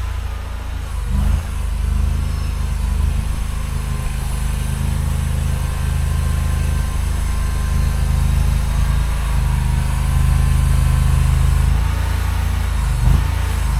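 Mini skid steer's engine running steadily, with brief shifts in engine note about a second in and again near the end.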